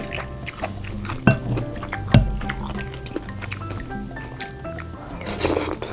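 Light background music, with eating sounds over it: chopsticks and a spoon clicking against the bowl, two of the clicks loud about a second and two seconds in, and a short burst of slurping near the end.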